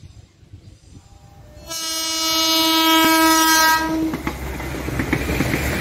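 A KAI inspection train sounds one horn blast of about two seconds, then passes close by with a steady rumble and repeated clicks of its wheels over the rail joints.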